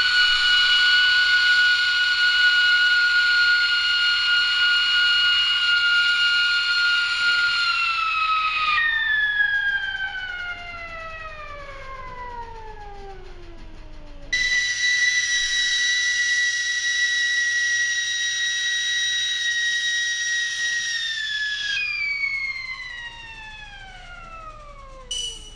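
Sampled stovetop kettle whistle, a loud steady shrill tone that then slides far down in pitch, bent like a synthesizer note. It happens twice: a second, higher whistle begins about halfway through and glides down again near the end.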